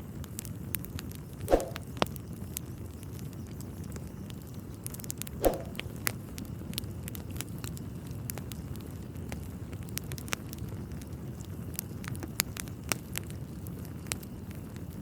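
Wood fire in a fireplace crackling, with frequent sharp snaps over a low steady rumble, and two louder pops about a second and a half and five and a half seconds in.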